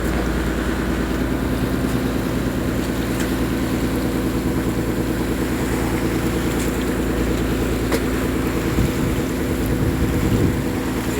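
A fishing boat's engine running steadily, with a low drone and wind on the microphone.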